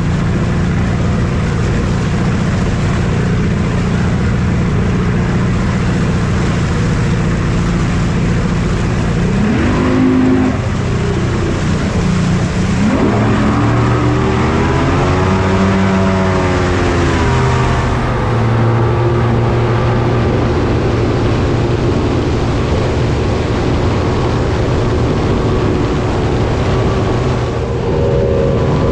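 Engine running steadily and being revved: a short rise in pitch about ten seconds in, then a longer climb and fall in the middle.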